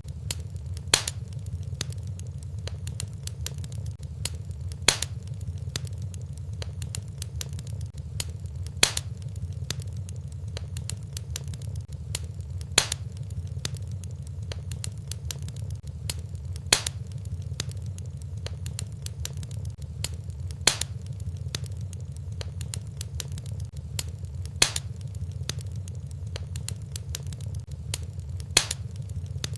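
Wood fire crackling in a fireplace: a steady low rumble with dense small crackles, and a louder sharp pop about every four seconds.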